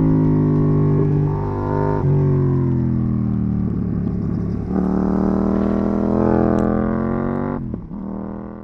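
KTM 790 Duke's parallel-twin engine through an IXRace MK2 aftermarket exhaust, heard from the rider's position as the bike slows: the exhaust note falls in pitch, steps back up twice as it shifts down, then drops away sharply near the end.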